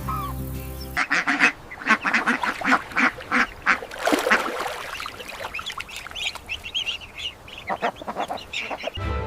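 Ducks quacking, a rapid run of many short, repeated calls. Background music plays briefly at the start and comes back near the end.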